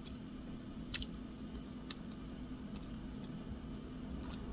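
Quiet chewing of a doughnut: a handful of soft mouth clicks, about one a second, over a low steady room hum.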